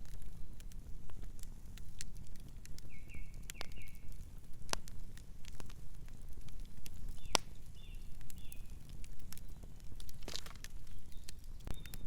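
Campfire crackling: irregular sharp pops and snaps over a low steady rumble, with a few louder pops. A bird chirps short runs of two or three notes three times.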